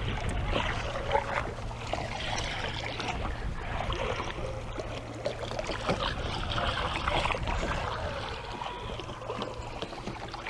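Water lapping and splashing against a fishing boat's hull, with a steady low hum underneath and a few small knocks.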